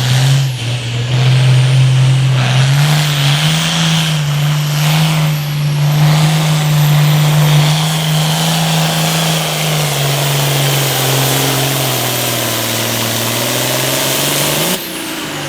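Hot Farm class pulling tractor's diesel engine running flat out down the track, loud and steady. Its pitch climbs early on, holds, then sags as the load pulls the revs down, and the sound cuts off suddenly near the end.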